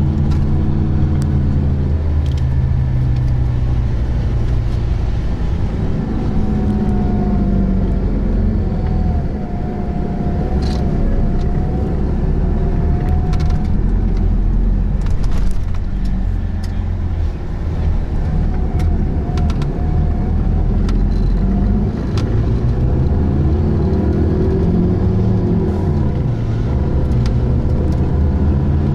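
Bus engine and road rumble heard from inside the moving bus: a steady low drone whose engine note rises and falls twice as the bus accelerates.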